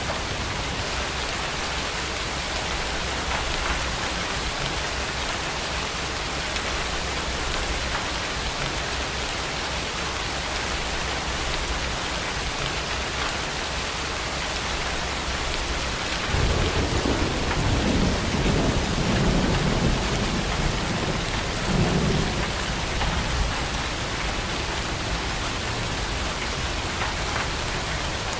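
Heavy rain falling steadily, with a low rumble of thunder rolling in about halfway through and fading out a few seconds later.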